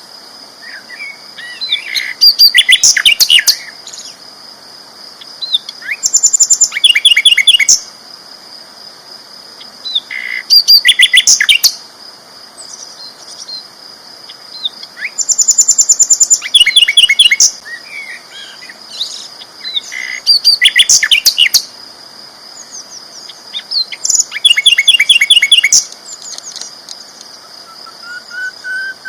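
Sikatan londo flycatcher singing loudly: short bouts of fast, repeated high trilled notes about every four to five seconds, with quieter chirps in between. A steady high-pitched whine runs underneath.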